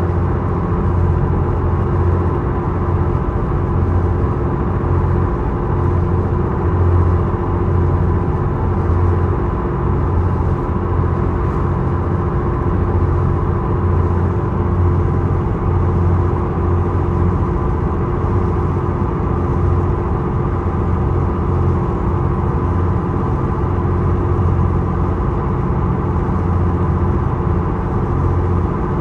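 The Isokaze passenger boat's engines running steadily under way, a constant drone with a steady hum over a low rumble that swells and eases.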